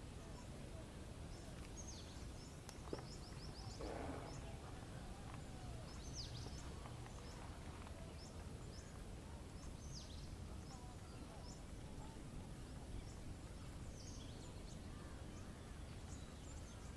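Faint forest ambience: a steady low background rumble with scattered short, high bird chirps throughout. There is a sharp click about three seconds in and a brief louder sound about a second after it.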